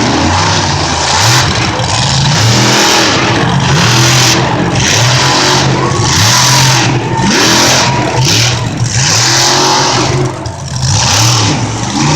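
Monster truck engine revving hard in repeated surges, its pitch climbing and dropping over and over.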